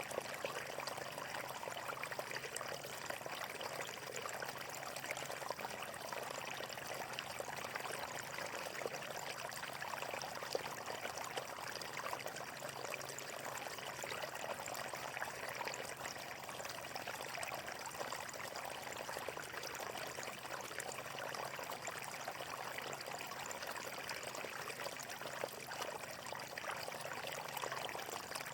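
Water flowing steadily, a constant rushing trickle with fine splashing throughout.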